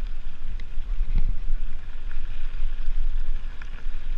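Wind buffeting the microphone of a bike-ride camera, a heavy fluttering rumble over a steady hiss, with scattered small clicks and knocks from the bike on the trail.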